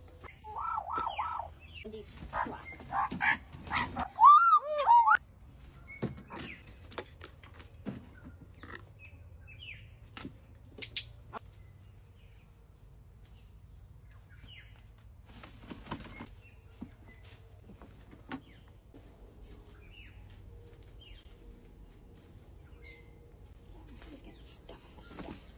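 A bird calling in a run of short, loud squawks over the first five seconds, then scattered light taps and clicks.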